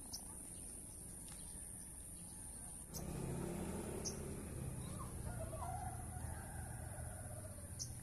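A small bird gives a few short, sharp, high chip calls, spaced a second or more apart, over a steady high-pitched hiss. About three seconds in, a low rumble rises beneath them.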